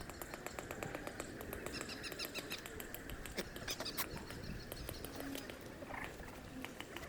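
Wood fire crackling in a metal fire pit: many irregular small pops and snaps over a steady hiss.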